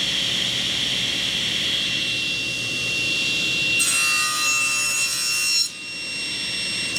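A miter saw cuts through a wooden board for about two seconds, starting near the middle, with a ringing, whining cut that ends abruptly. Under it runs a steady machine drone with a high whine.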